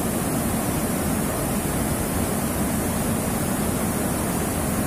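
Monsoon-swollen waterfall in full flow: a heavy, steady rush of falling water.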